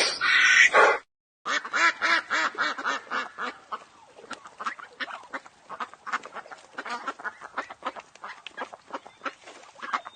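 Ducks quacking: a fast run of short quacks, several overlapping. One clip breaks off about a second in and another starts, its quacks growing fainter toward the end.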